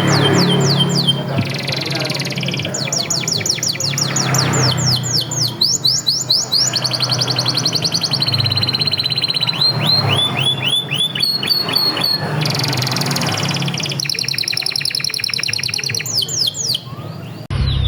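Domestic canary singing a fast, varied song: rapid trills of repeated down-sweeping notes and rolling phrases, switching to a new phrase every second or two. A low steady hum runs underneath.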